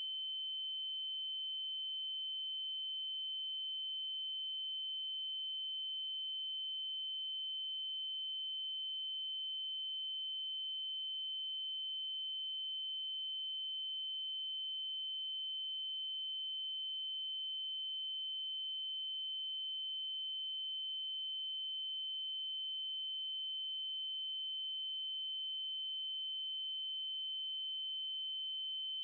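Steady synthesized 3072 Hz triangle-wave tone: a single unbroken high-pitched note that does not change.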